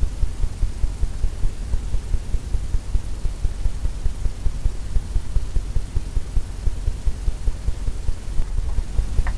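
Rapid, irregular low thumps of a brush dabbing paint onto a canvas on its easel, several a second.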